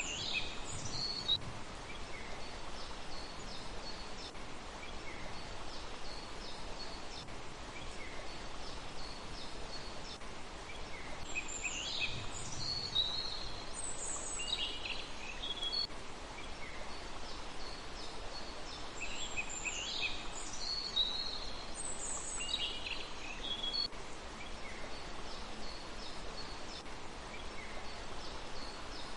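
Small birds singing: clusters of quick high chirps and trills come in bursts about the start, around the middle and again a few seconds later. Fainter repeated high notes sound in between, all over a steady background hiss.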